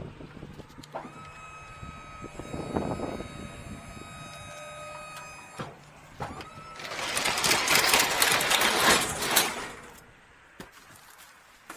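The liftgate's electric hydraulic pump motor runs with a steady whine for about four and a half seconds, then stops. About a second later a louder, rough, rattling noise lasts about three seconds.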